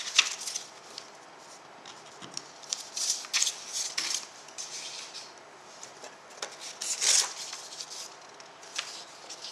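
Intermittent scratchy rubbing and scraping in short irregular bouts, the strongest about three and seven seconds in.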